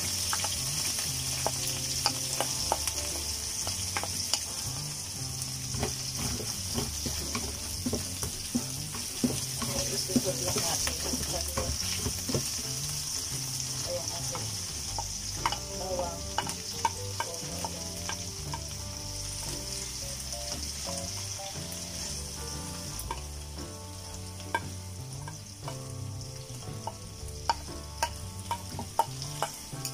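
Minced ginger and garlic sizzling steadily in hot prawn oil in a pan as they are stir-fried. A utensil moving through the pan makes frequent light clicks.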